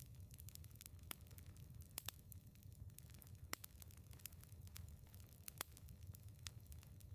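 Firewood burning in a fireplace, crackling faintly with irregular sharp pops, a few of them louder, over a low steady rumble.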